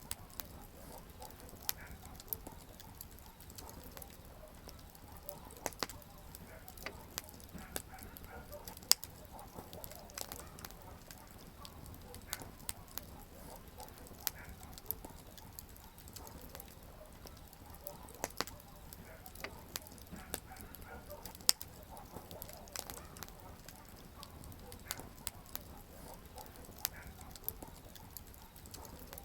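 Wood campfire crackling, with irregular sharp pops and snaps over a faint steady low rumble of the flames. Two pops, about nine seconds in and about twenty-one seconds in, are much louder than the rest.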